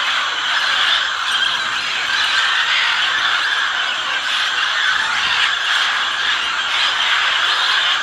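A flock of macaws calling together: a steady, dense chorus of harsh squawks and chatter with no pause.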